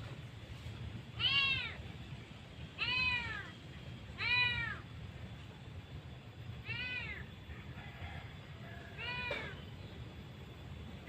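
A cat meowing five times, each meow short and arching up then down in pitch, a second or two apart.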